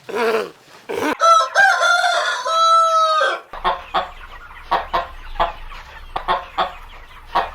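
A rooster crows once, a long pitched call lasting about two seconds, followed by a run of short, sharp clucks from chickens. A brief falling cry is heard at the very start.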